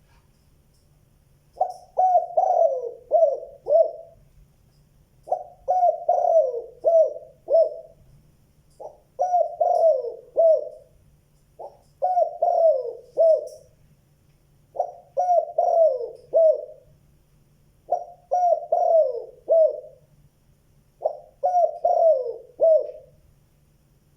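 Spotted dove cooing: seven repeated phrases of four or five quick coos each, about three seconds apart. This is the bird's full calling song.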